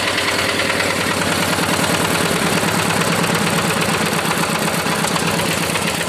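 Single-cylinder diesel engine of a rice-field hand tractor running steadily, with a fast, even knocking beat.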